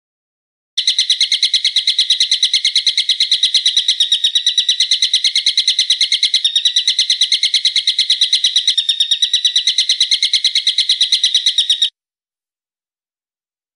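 A bird calling in one fast, unbroken series of sharp, evenly repeated high notes, at many notes a second, that starts and stops abruptly. It is a looped birdsong-training recording with small seams where the loop joins.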